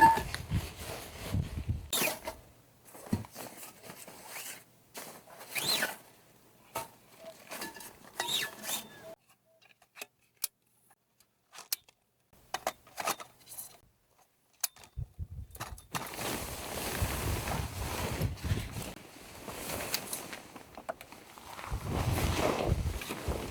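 Scattered clicks, knocks and rustling of handling and movement, about ten seconds in giving way to a few seconds of near silence with only isolated clicks, then denser shuffling and rustling like footsteps.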